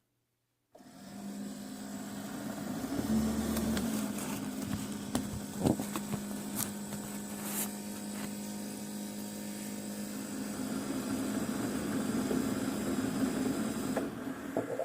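Keurig K-Classic coffee maker starting its brew cycle: the pump switches on abruptly about a second in and runs with a steady hum, with a few clicks partway through.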